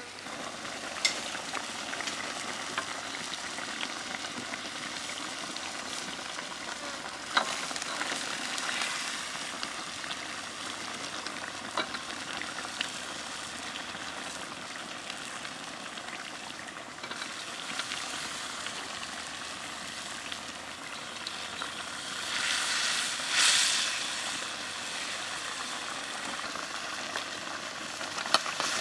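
Giant freshwater prawns frying in a steel wok over a wood fire, a steady sizzle with a few sharp clicks of the metal ladle against the wok. The sizzle swells louder for a couple of seconds about three-quarters of the way through.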